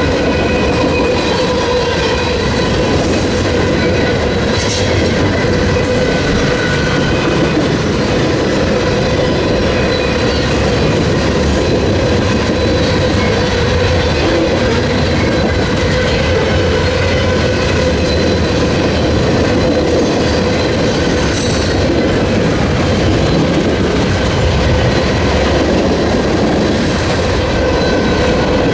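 Freight train cars rolling past: a steady rumble of steel wheels on rail with a thin, steady squeal from the wheels and a few brief metallic clanks.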